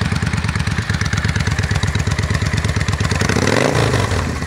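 1998 Yamaha V-Star 650's V-twin idling with a steady pulsing beat through a new Vance & Hines Cruzer exhaust, then revved about three seconds in, the pitch rising and falling back.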